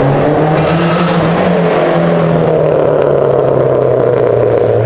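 A hatchback's engine running loud under acceleration as the car drives past, its note rising in the first second and then falling slowly as it goes by.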